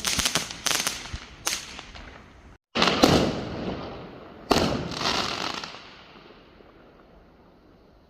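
Small fireworks going off: a quick run of sharp cracks and pops, then two louder bursts of crackling about three and four and a half seconds in, dying away over the last couple of seconds.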